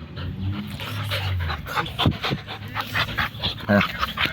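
A dog panting in quick, rhythmic breaths, several a second.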